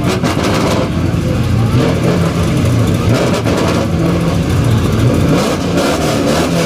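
A car engine running loud and revving.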